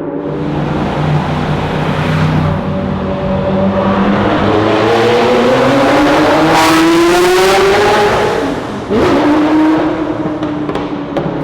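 Ferrari F40 LM's twin-turbo V8 under hard acceleration, its pitch climbing for several seconds before dropping sharply about nine seconds in. It settles to a steadier lower note, with sharp exhaust crackles near the end.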